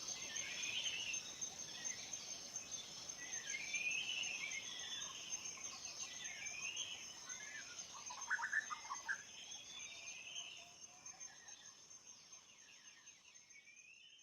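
Forest birds singing short warbling phrases every couple of seconds over a steady high insect trill. The whole ambience fades out over the last few seconds.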